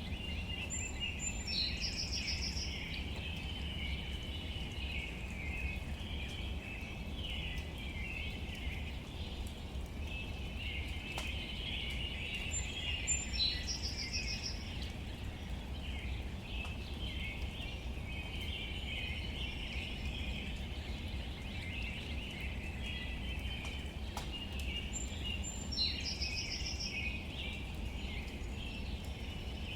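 Outdoor nature ambience: a steady chorus of chirping over a low rumble, with a short, high trilling bird call that comes three times, about twelve seconds apart.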